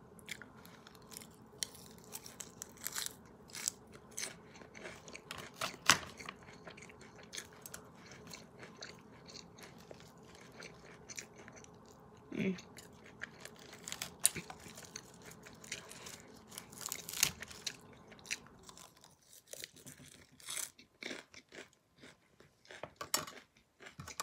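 Close-up biting and chewing of crisp romaine lettuce salad, with irregular wet crunches. A faint steady background hum cuts out about three-quarters of the way through.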